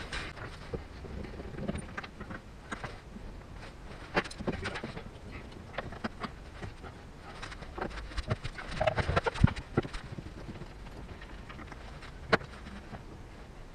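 Handling noise from fitting acrylic sheet panels by hand: scattered knocks, taps and rubbing. A cluster of knocks comes about nine seconds in, and one sharp click follows a few seconds later.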